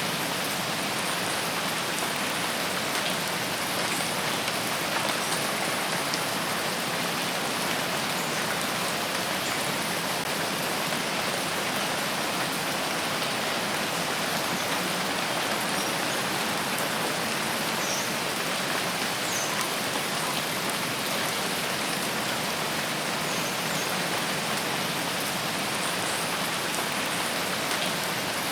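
Steady, heavy rain falling in a forest: a dense, even hiss of drops on leaves and ground that keeps a constant level throughout.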